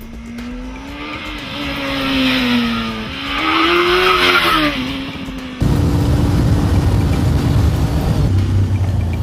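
CG Quadster's BMW K1200S inline-four engine revving through the gears as it drives by, its pitch rising and falling, loudest about four seconds in. About five and a half seconds in, the sound cuts abruptly to a steady, lower engine noise.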